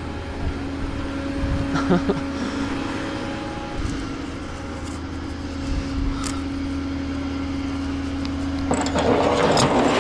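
A vehicle engine running steadily at idle, with a few light knocks, then a louder rushing noise coming in near the end.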